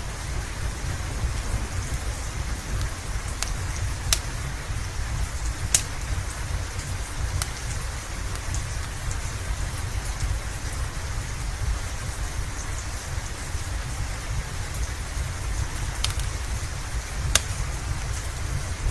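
Steady rain with a deep low rumble underneath, and a wood fire giving a few sharp, isolated pops and crackles.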